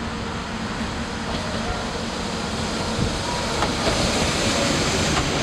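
Diesel railcar train running, a steady rumble and rush that grows louder over the second half, with a few light clicks.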